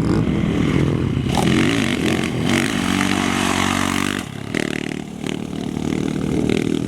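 Off-road race vehicle engine revving hard, its pitch climbing and holding, then easing off about four seconds in before picking back up.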